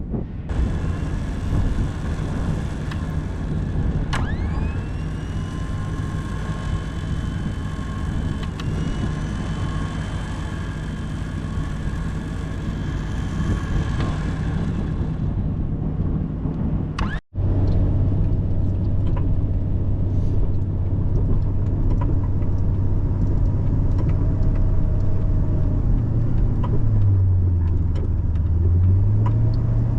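A truck's engine running, with a thin whine that rises twice in the first half. About 17 s in the sound cuts out for an instant, and the engine then resumes with a strong, steady low note that dips in pitch and comes back up near the end.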